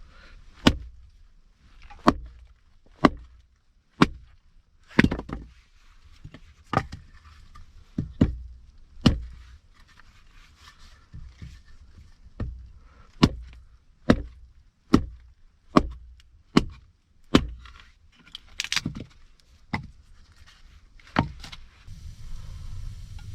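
Wood being chopped: about twenty sharp blows, roughly one a second at an uneven pace, each with a dull thud beneath it.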